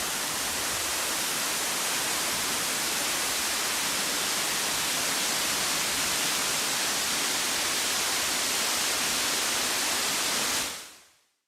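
Rushing of a large waterfall, Arethusa Falls in high spring flow: a steady, even roar of falling water that fades in at the start and fades out near the end.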